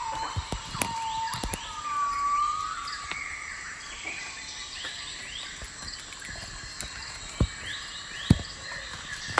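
Small birds chirping: many short rising chirps, with a couple of longer whistled glides in the first few seconds and two sharp knocks near the end.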